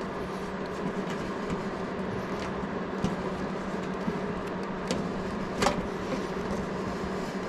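Steady background hum with a few faint clicks and taps, the clearest a little over halfway through, as a hose is pushed on and clipped to the motorcycle fuel tank by hand.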